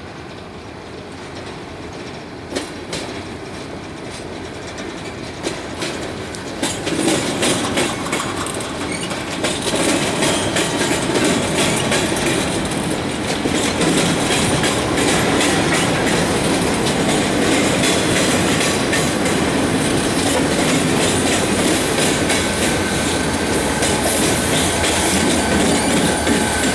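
Freight train being shoved past with boxcars leading: wheels click over rail joints and the rolling noise grows louder during the first ten seconds or so, then holds steady. Near the end a faint thin wheel squeal comes in.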